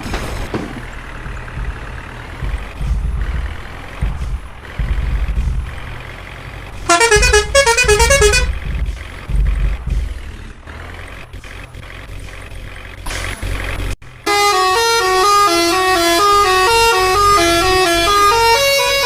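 Tractor diesel engine running with a low rumble that rises and falls in surges, with a quick melodic horn tune sounding briefly about midway. About two-thirds in, the sound switches abruptly to a loud melodic tune of stepping electronic notes.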